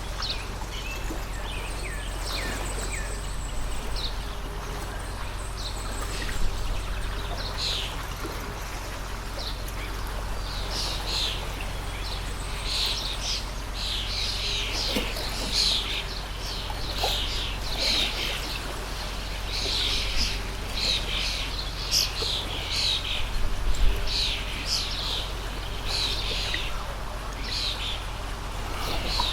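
Stream of running water with birds chirping over it: many short, repeated chirps, busier in the second half.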